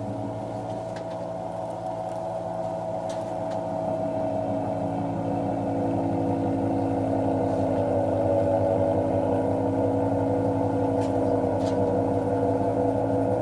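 John Deere X738 lawn tractor engine running steadily, its pitch sagging slightly and then recovering near the end.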